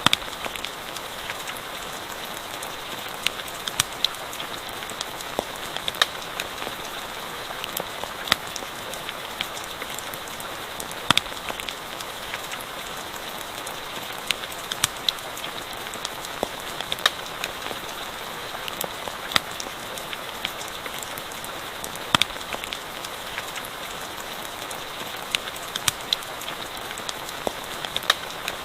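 Steady rain hiss with a crackling campfire, its sharp pops and snaps scattered irregularly, a second or so apart.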